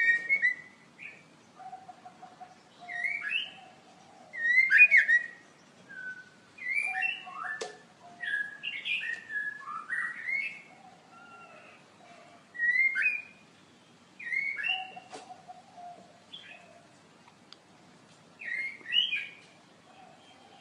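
Songbird singing in short, quick whistled phrases, a burst every second or two, with a lower, steadier whistled note coming in now and then between them.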